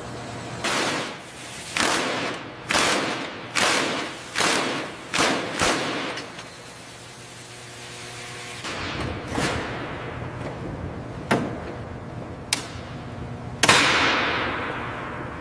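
A run of about seven thuds, roughly one every 0.8 seconds, each with a short ringing tail. Then a steadier hum with two sharp clicks, and near the end a louder hit that fades out slowly.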